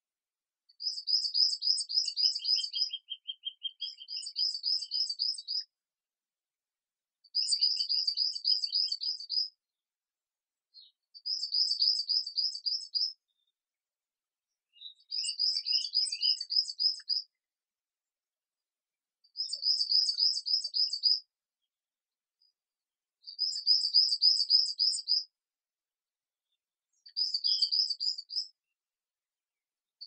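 A songbird singing short, high trilled phrases of rapid repeated notes, each about two seconds long, repeated roughly every four seconds with clean silence between. A lower, slower trill sounds under the first two phrases.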